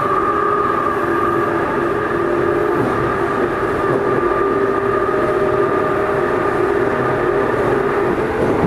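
Tobu 20070-series commuter train running at a steady speed in the Hibiya Line subway tunnel, heard from inside the car: a loud rumble of wheels and running gear with several steady whining tones that hold their pitch.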